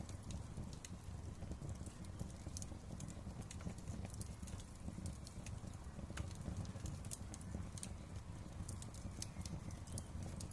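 Wood fire crackling: frequent irregular sharp pops and snaps over a low, steady rumble of the flames.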